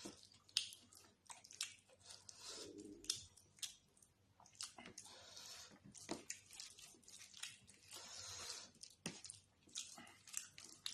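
Close-miked wet chewing and lip smacking of a person eating chicken curry and rice, with irregular sharp mouth clicks.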